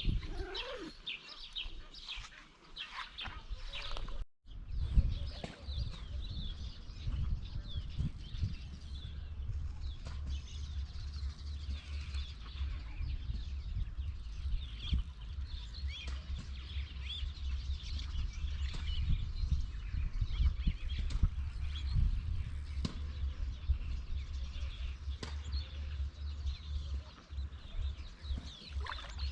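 Small birds chirping and calling, with a low wind rumble on the microphone from about four seconds in.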